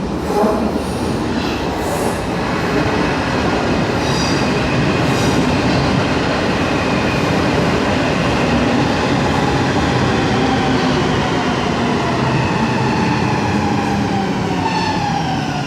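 A Helsinki Metro M100 train running through the station with a loud, steady rumble and a whine from its motors. Near the end the whine falls in pitch as the train slows.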